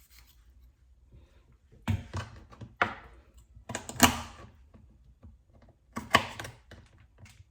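Knife chopping through chicken feet on a cutting board: a few clusters of sharp thunks, about two seconds in, around three and four seconds, and again about six seconds in.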